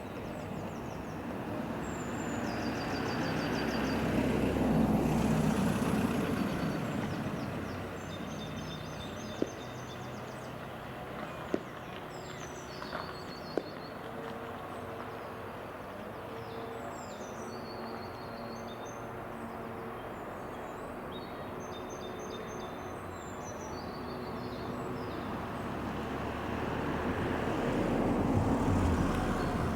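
Diesel-hauled freight train running past: an engine drone with a steady hum that swells about five seconds in and again near the end, broken by three sharp clanks. Small birds sing throughout.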